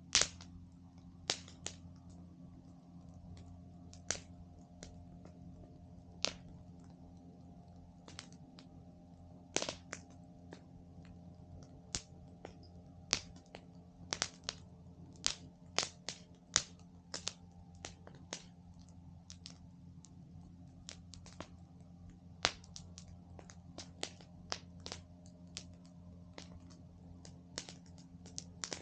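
Campfire burning, its wood crackling and popping in irregular sharp cracks, a few much louder than the rest. Under it runs a steady low hum.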